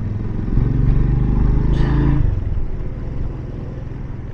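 Motorcycle engine running while riding, pulling harder and rising slightly in pitch about half a second in, then easing off after about two seconds.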